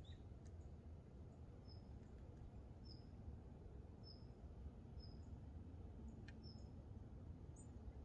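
A small bird calling faintly outdoors, with short high chirps repeated roughly once a second, over a faint low rumble of open-air ambience.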